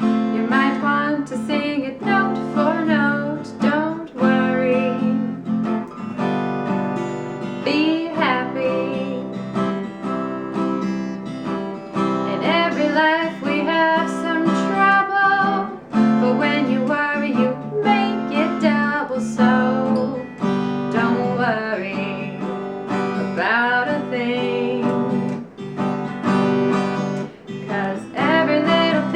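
A woman singing over her own strummed acoustic guitar, which keeps a steady chord rhythm under the melody.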